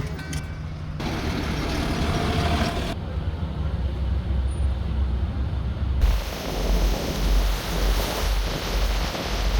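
Vehicle and traffic rumble in several short clips cut together, the sound changing abruptly about one, three and six seconds in. The last few seconds hold an uneven, pulsing low rumble.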